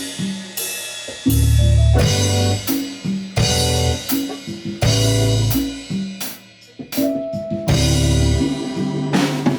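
A live pop-jazz band playing, with drum kit, bass and guitar. The band breaks off briefly about two-thirds of the way through, then comes back in with drum hits.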